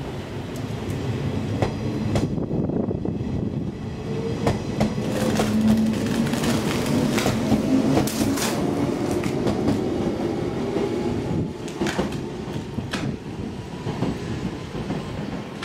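Shinano Railway 115 series electric train pulling out and accelerating past, its traction motors humming with a pitch that rises as it gathers speed, and its wheels clacking over rail joints. The sound eases off near the end as the train draws away.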